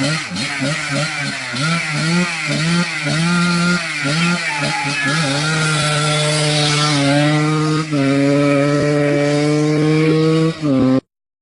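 Small motorcycle engine revving in quick repeated rises and falls, then held at a steady high pitch for several seconds before cutting off suddenly near the end.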